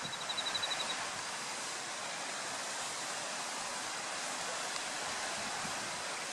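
Typhoon-swollen river in flood: fast floodwater rushing steadily. A brief run of quick high ticks sounds near the start.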